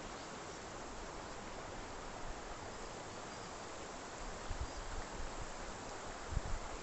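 Steady outdoor background hiss, like insects or distant running water, with a few low thumps in the last couple of seconds.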